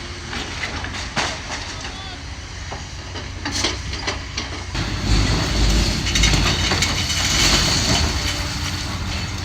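Demolition of a brick school building by an excavator: scattered knocks and scraping, then, about five seconds in, a louder rumble and crackle of brick and debris coming down.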